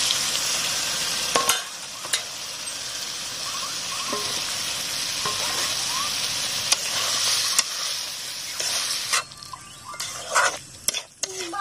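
Chicken pieces and potatoes sizzling in hot oil and masala in a metal kadai, with a steady frying hiss. A metal spatula scrapes and clicks against the pan a few times while stirring. The sizzle dies down near the end.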